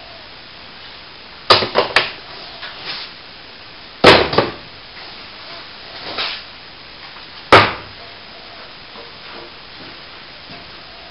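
A handful of sharp knocks and clatters over a steady background hiss: three quick ones about one and a half seconds in, a double knock about four seconds in, a lighter one near six seconds and a single loud one past seven seconds.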